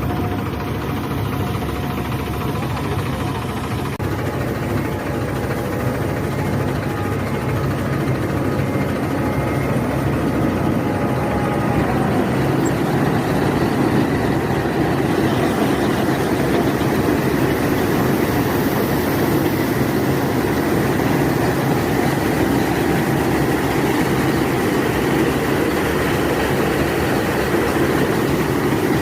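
Combine harvester fitted with a Super Straw Management System, harvesting paddy: a steady heavy engine and machinery drone. It grows somewhat louder about halfway through.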